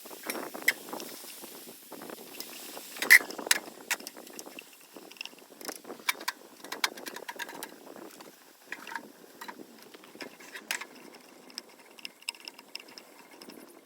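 Irregular light clicks and taps, some with a brief metallic ring, and one louder knock about three seconds in.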